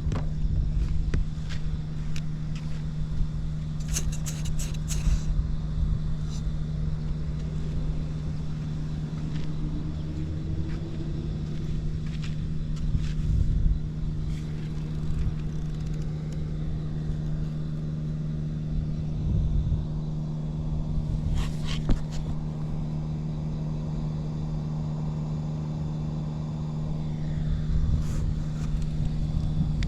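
Honda C70 Super Cub's single-cylinder four-stroke engine idling steadily, with a few brief light clicks; it runs evenly, without abnormal noise.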